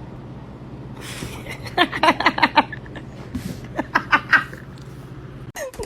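A person laughing in two quick runs of short bursts, over a steady low hum.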